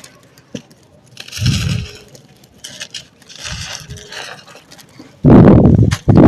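Dry, stony sand-cement chunks being crushed and crumbled: gritty crunching in several separate bursts, the last two, starting about five seconds in, much louder.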